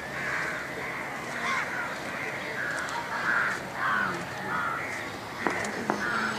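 Birds calling outdoors: a steady run of short, harsh calls, about one every half second, with two sharp clicks near the end.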